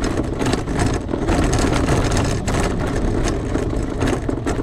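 Rosso Motors ATV running steadily as it is ridden.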